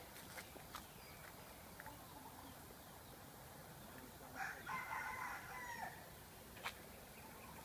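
A single drawn-out animal call, about a second and a half long, falling in pitch at its end, with a few scattered clicks around it.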